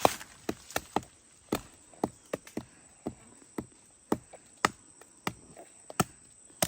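A run of sharp knocks or chopping strikes, unevenly spaced at about two a second.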